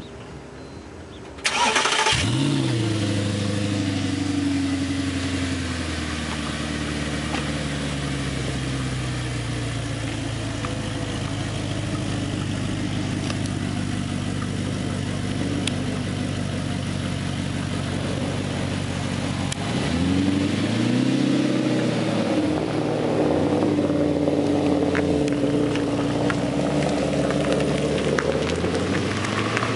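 Audi R8 with a Stasis aftermarket exhaust starting up: the starter catches with a loud flare about a second and a half in, and the engine quickly drops to a steady idle. From about twenty seconds in come a series of short revs as the car pulls away.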